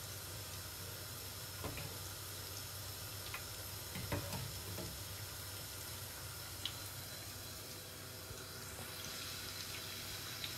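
Zucchini fritters frying in hot oil in a large pan, a quiet steady sizzle, with a few light taps of the slotted spoon against the pan.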